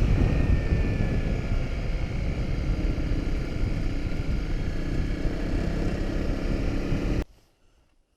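Honda CRF250 Rally's single-cylinder engine running while riding, under heavy wind buffeting on the microphone. It cuts off suddenly about seven seconds in.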